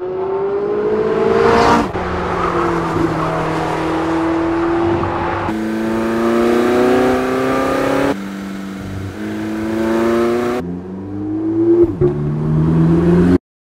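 Porsche 918 Spyder's 4.6-litre V8 running hard at high revs on a track, its pitch climbing as it accelerates, in several spliced passes that cut abruptly from one to the next. The sound stops suddenly near the end.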